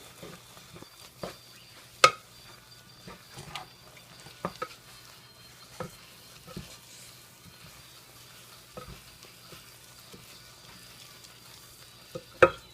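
Wooden spoon stirring a thick oatmeal-and-cocoa cookie mixture in a pan on the stove. It scrapes and knocks against the pan at uneven intervals; the sharpest knocks come about two seconds in and near the end.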